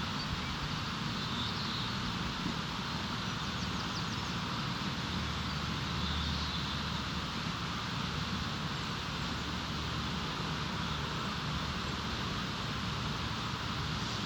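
Steady outdoor ambience: an even rushing noise that does not change, with a few faint bird chirps.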